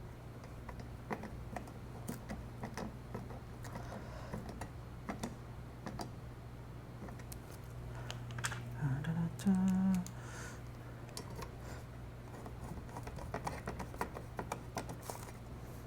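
Scattered light clicks and taps of small parts and a screwdriver being handled on a disco light's housing, over a steady low hum. About halfway through a short hummed voice sound is the loudest thing.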